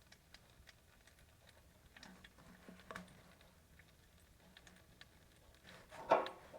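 Faint, scattered light ticks and clicks, with a louder short clatter about six seconds in.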